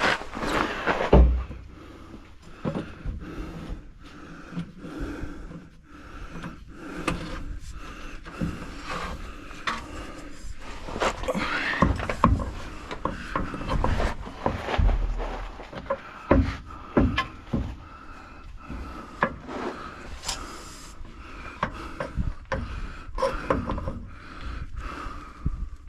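Irregular knocks, clunks and scraping from hands-on work under a vehicle, setting a jack and handling tools.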